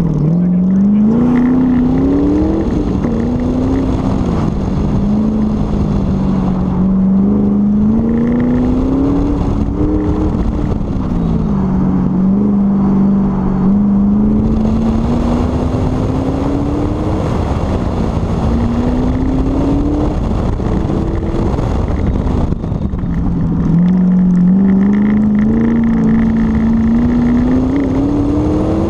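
A sports car's engine under hard driving on an autocross course, its pitch climbing under throttle and dropping off again and again as the car accelerates, lifts and brakes between cones. Heard from outside the car, with wind noise over the microphone.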